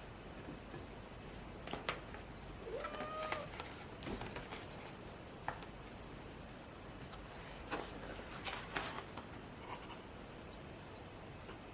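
Quiet, scattered light taps and clicks of small objects being handled, with one short squeak about three seconds in.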